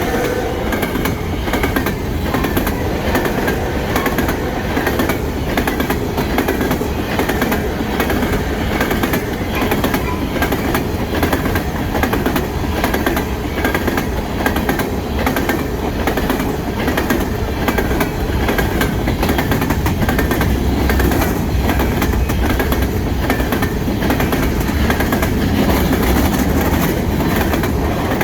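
Three-bay covered hopper cars of a freight train rolling past, steel wheels clicking over rail joints over a steady rumble and rattle of the cars.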